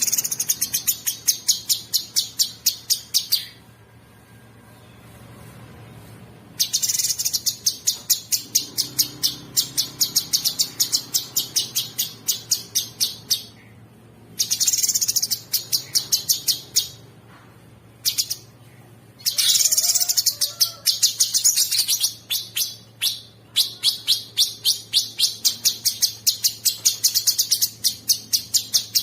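Cucak sungkok singing a coarse, rattling song: long runs of fast, sharp, high notes repeated about five a second, with short pauses between the runs. A faint steady hum lies underneath.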